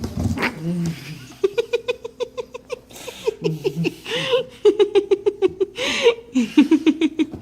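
People laughing hard in rapid runs of short 'ha' bursts, about five or six a second, with two longer rising-and-falling squeals partway through.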